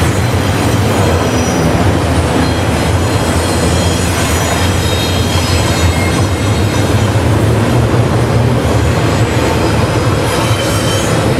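Freight train cars rolling past, a steady loud rumble of wheels on rail with faint high-pitched wheel squeal.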